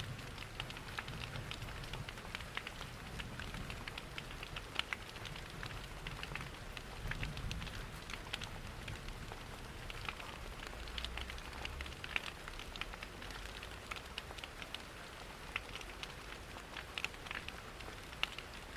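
Steady rain pattering, mixed with the crackle of a wood fire in a fireplace: many small sharp pops and ticks over a continuous hiss, with a low rumble underneath that swells now and then.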